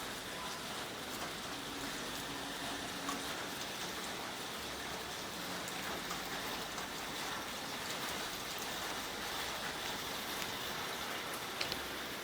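Steady rain falling on surfaces, an even hiss with scattered drop ticks, and a couple of sharp taps near the end.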